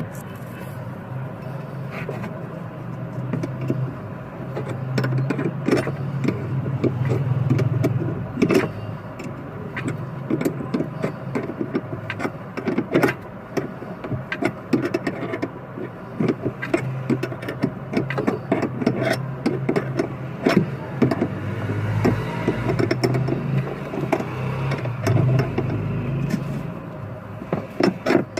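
Hand repair work on a washing machine's rotor and pulley parts: many irregular clicks and knocks of metal and tools over a steady low hum.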